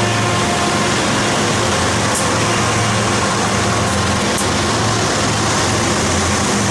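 BNSF double-stack freight train rolling by: a steady, loud rumble of wheels on rail, with a low hum that swells and fades every second or two and a few faint high ticks.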